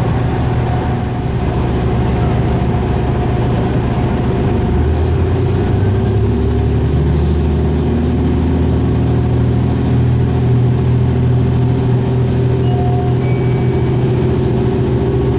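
Diesel railcar engine running, its low tones stepping up in pitch about five seconds in and holding steady after, as the train powers up.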